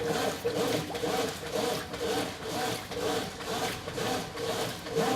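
Brastemp 9 kg top-loading washing machine agitating a full load in high water. The motor hums while the agitator churns the wash back and forth in an even rhythm, about two strokes a second.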